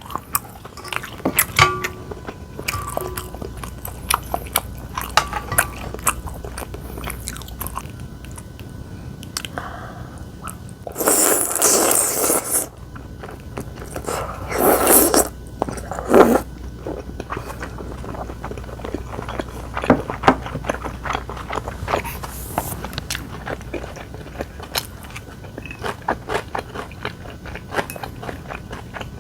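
Close-miked eating: steady chewing and crunching of food. A few louder, longer noisy sounds come about eleven seconds in and again about fifteen seconds in, typical of slurping udon noodles.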